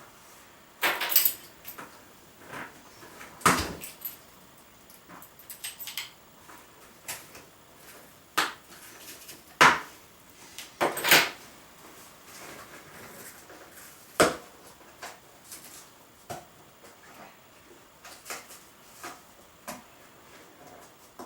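Irregular knocks, clicks and rustling as a boxed blender and its packaging are handled, with the sharpest knocks about a second in, around three and a half seconds, near ten and eleven seconds, and around fourteen seconds.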